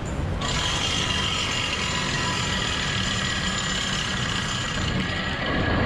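A large road vehicle's engine idling in street traffic, with a steady high whine that starts about half a second in and cuts off about five seconds in.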